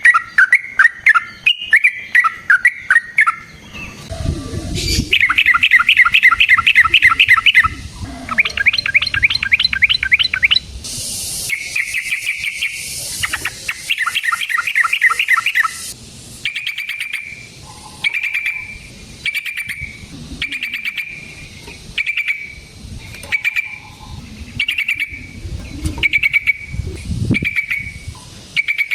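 Yellow-vented bulbul singing: fast rolling runs of chattering notes in the first half, then short calls repeated about once a second.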